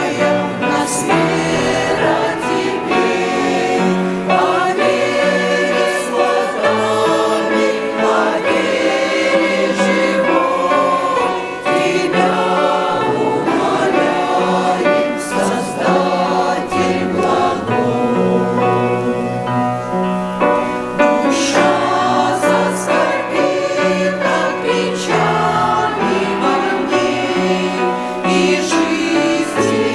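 Church choir singing a Christian hymn in Russian in several parts, with a held bass line under the upper voices.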